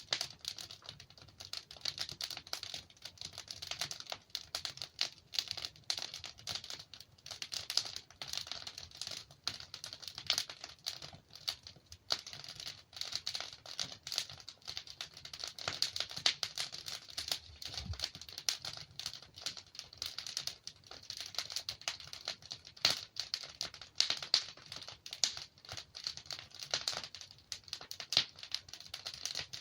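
Wood fire crackling and popping as logs burn: a dense run of small irregular snaps over a steady hiss, with a few louder pops.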